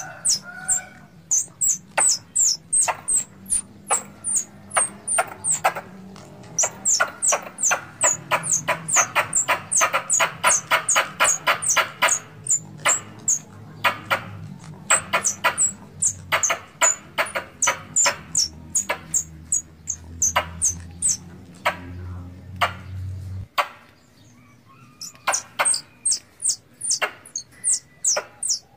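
Tree squirrel (bajing) calls played as a hunting lure: a long run of sharp, high chirps, each falling quickly in pitch, two to three a second, quickening into a fast chatter in the middle. A low background hum stops suddenly about 23 seconds in.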